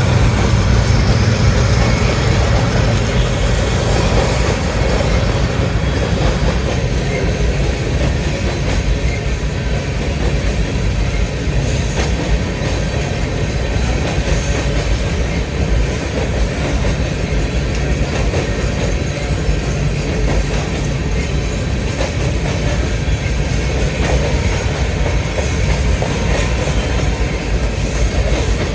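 BNSF grain train's cars rolling past, a steady rumble with scattered clicks from the wheels.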